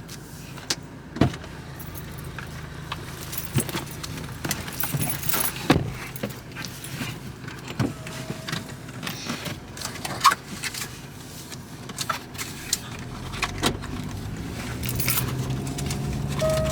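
Scattered clicks, knocks and rattles of things being handled around a car, over the steady low hum of a car, which grows louder near the end.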